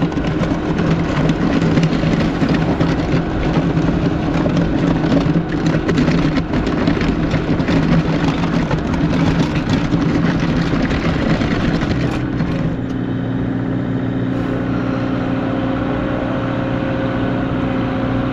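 Kubota LX compact tractor's diesel engine running hard, then dropping to a lower, steadier note about two-thirds of the way through.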